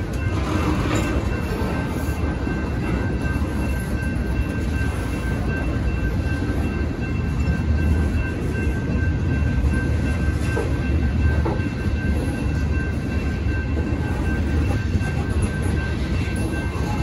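Freight train cars rolling past at a grade crossing: a steady low rumble with the rattle and clatter of wheels on rail. A steady high-pitched tone sounds above it.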